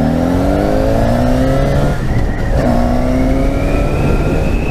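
2012 Yamaha FZ6R's 600cc inline-four engine pulling under acceleration, revs rising. It shifts up once about two seconds in and climbs again from a lower pitch, over wind rush on the helmet microphone.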